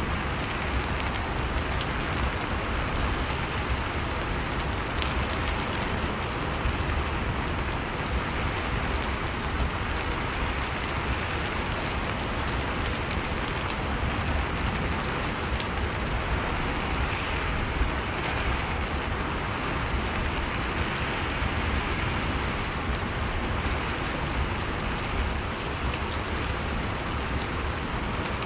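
Steady rain falling, with a continuous patter of drops on a surface.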